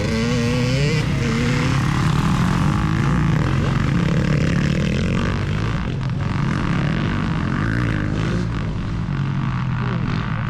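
Motocross dirt bike engine running loud, its pitch rising and falling with the throttle during the first couple of seconds, then holding a steady drone.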